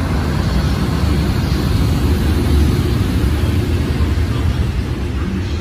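Container freight train hauled by an EH500 electric locomotive rolling past: a steady heavy rumble of wheels on rails, loudest a couple of seconds in and easing slightly toward the end.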